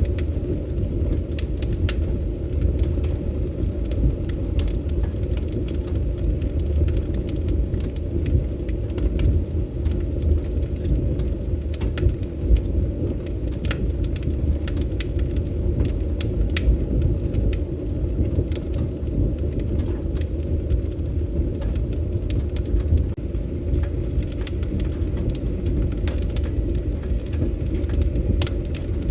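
Wood fire burning with a steady low roar and frequent small sharp crackles and pops.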